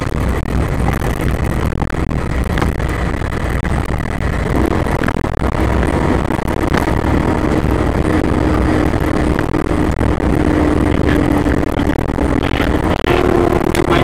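Fire engine driving on the road, heard from inside the cab: a steady engine and road rumble, with an engine drone that sets in about four seconds in and steps up a little in pitch near the end.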